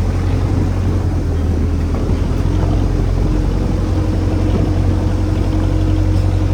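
A fishing boat's engine running at a steady speed, with a constant low hum.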